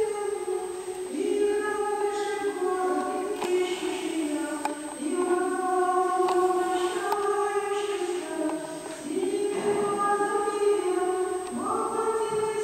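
Church choir singing unaccompanied Orthodox liturgical chant: several voices holding long notes and moving together in phrases.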